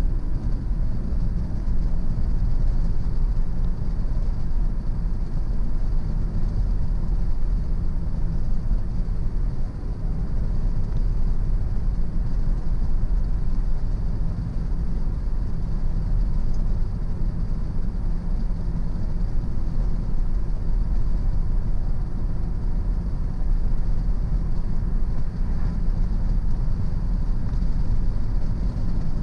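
Car driving at a steady speed: a constant low rumble of engine and tyres on the road.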